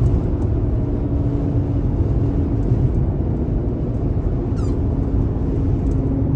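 Steady low rumble of wind and vehicle noise on the microphone, with a brief high squeak about four and a half seconds in.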